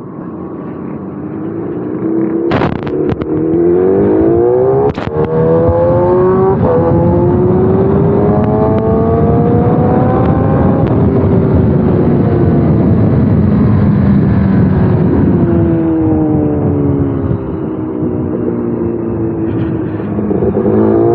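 Kawasaki ZX-10R sportbike engine pulling hard, its pitch climbing in steps through a few upshifts, then falling away as the bike slows, and rising again near the end. Steady wind noise runs underneath, and there are two sharp clicks a few seconds in.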